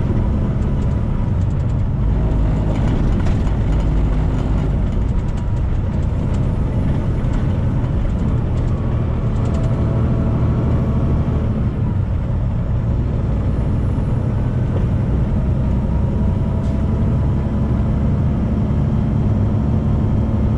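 Steady drone of a 2018 Freightliner semi-truck's engine and tyres on the highway, heard from inside the cab.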